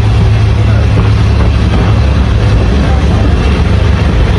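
A railway locomotive running, a loud, steady low drone with no clear beat.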